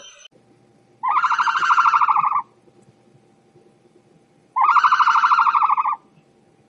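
A young goat bleating twice, two long, high, quavering bleats about three seconds apart.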